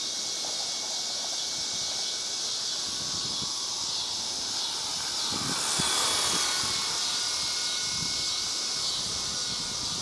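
WLToys V912 electric RC helicopter's motor and rotors whirring in flight, a steady high-pitched whine that swells louder about halfway through.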